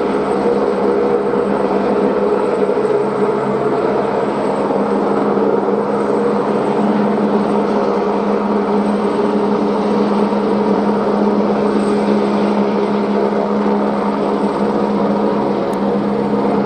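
Helicopter in flight, its rotor and engine running steadily.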